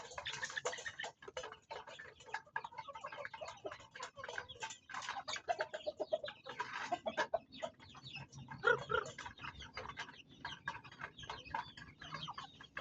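Farm chickens clucking, with many short clicking sounds among the calls.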